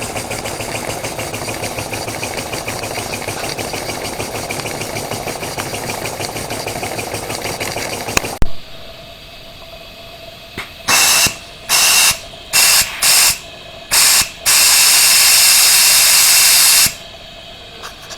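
Small live-steam engines, including a scratch-built oscillating engine, running fast with a rapid, even chuff and hiss. About eight seconds in the sound cuts off sharply with a click. Then come five short blasts of steam hiss and one longer one of about two seconds.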